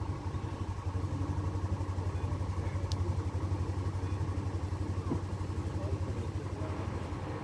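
Bus engine running with a steady, fast-pulsing low throb.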